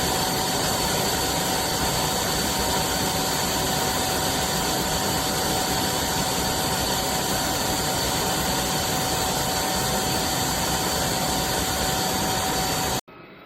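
eufy Omni C20 vacuum motor running at full suction, a loud, steady rush with a steady whine that has just spun up. It shuts off suddenly near the end.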